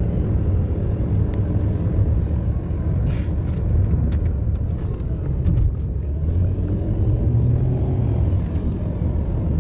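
Steady low rumble of a moving car, heard from inside: engine and road noise, with a few faint light clicks.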